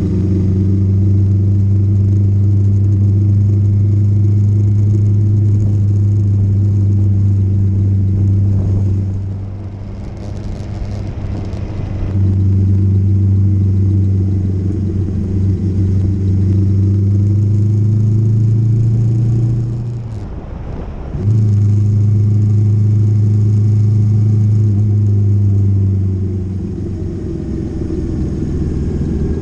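Motorcycle engine running steadily on the move. The engine note falls away twice, about a third of the way in and again about two-thirds through, then picks back up. The pitch climbs slightly just before the second drop.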